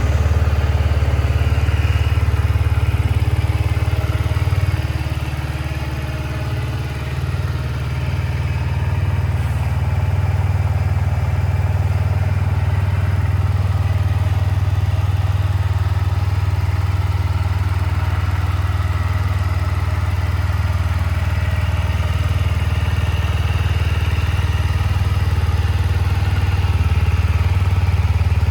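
Yamaha YZF-R125's single-cylinder four-stroke engine idling steadily, with a slight dip in loudness for a few seconds near the start.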